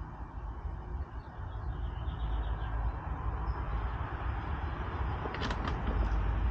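Steady outdoor background noise: a low rumble under a hiss. Faint short chirps come about two seconds in, and a few sharp clicks near the end.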